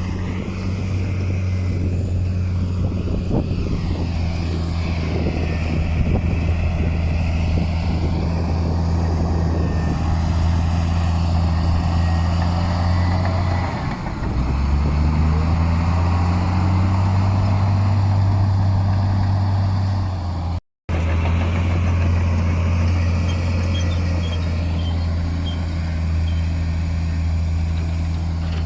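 Heavy diesel earthmoving machinery running steadily under load. About halfway through, the engine note sags briefly, then rises back up. The sound cuts out for an instant about two-thirds of the way through, then the engine carries on.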